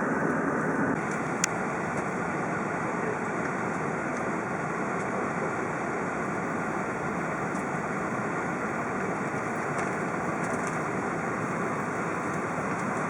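Steady cabin noise inside an Airbus A380 before takeoff: the even rush of the engines and air conditioning, with a single sharp click about a second and a half in.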